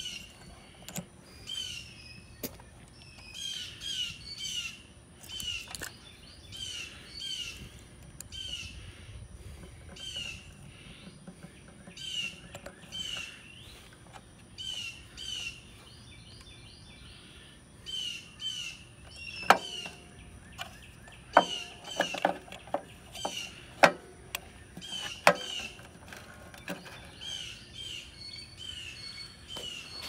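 Small birds chirping steadily, short notes often in pairs about once a second. In the second half a handful of sharp clicks and knocks stand out above them.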